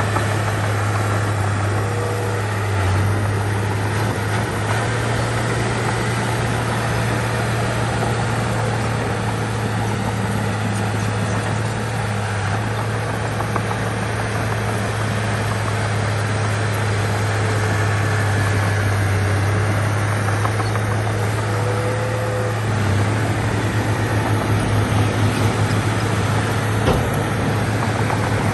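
Heavy diesel earthmoving machinery running, a steady low engine drone. Near the end the drone turns pulsing and a little louder.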